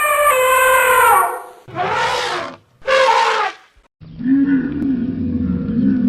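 A run of wild animal calls, one after another: a loud, high, brassy trumpeting call that breaks off about a second in, then two short, rough roars, then from about four seconds in a lower, wavering lowing call.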